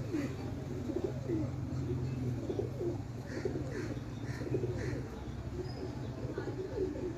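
Domestic pigeons cooing repeatedly, over a steady low hum.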